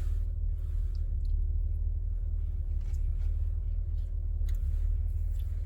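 Steady low rumble of a van's idling engine heard from inside the cab, with a faint steady hum and a few faint clicks.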